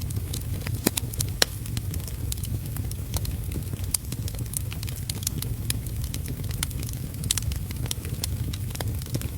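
Wood fire crackling in a fireplace, with frequent irregular sharp pops of varying loudness over a steady low rumble and a faint hiss.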